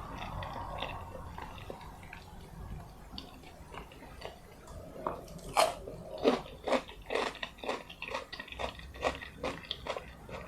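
Close-miked mouth eating sounds: quiet at first, then from about halfway in, steady chewing with sharp clicks about three times a second.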